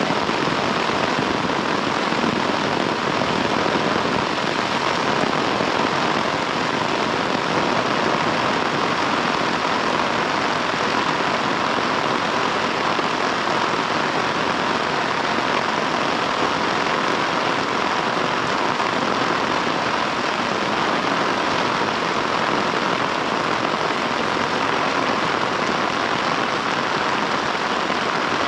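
Heavy rain falling steadily as an unbroken hiss.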